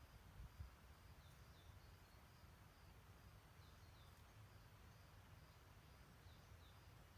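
Faint stream-side ambience: a distant bird repeats short, high falling chirps in pairs every two or three seconds over a soft hiss of running water and a low rumble.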